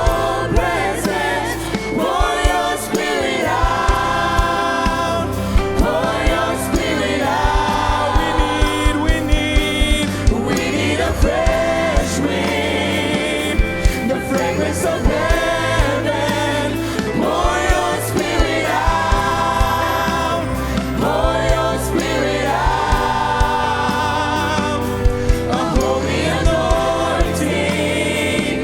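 Gospel worship music: a choir singing over a band with a steady bass line and regular drum beats.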